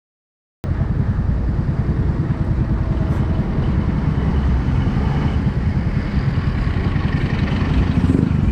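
Motorcycle engine and road noise while riding, a loud steady rumble that cuts in abruptly about half a second in.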